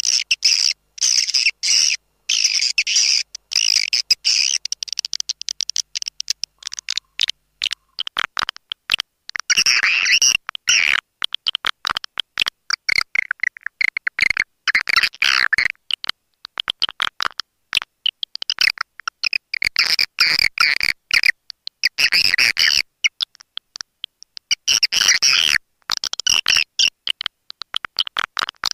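Swiftlet lure-call recording: dense, high-pitched, rapid chattering twitters of swiftlets, broken again and again by brief gaps. This is the calling sound played to draw swiftlets into a bird house.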